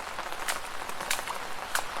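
Footsteps splashing through shallow puddles, three steps a little over half a second apart, over a steady wet hiss.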